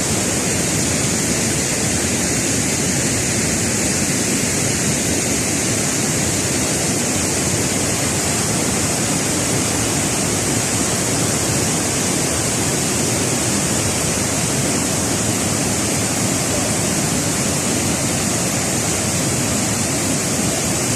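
Steady rushing of cascading water from the Agua Azul waterfalls, an even, loud roar with no breaks.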